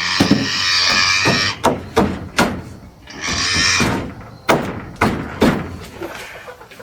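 Carpentry work on wooden framing: a power tool runs in two short bursts, the first at the start and the second about three seconds in, with a string of sharp knocks on the wood between and after them.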